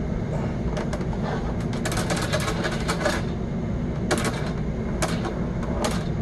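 Sewer camera push cable and reel clicking and rattling in bursts as the camera is fed down a clay sewer line, densest a couple of seconds in, then a few single clicks. A steady low rumble runs underneath.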